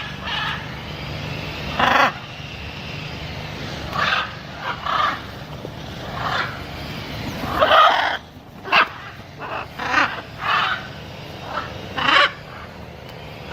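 Macaw calling: about a dozen short, harsh squawks at uneven intervals.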